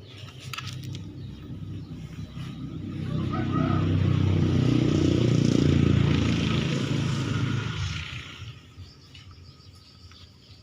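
A motor vehicle passing by, its engine noise rising over a few seconds to a peak about halfway through and then fading away.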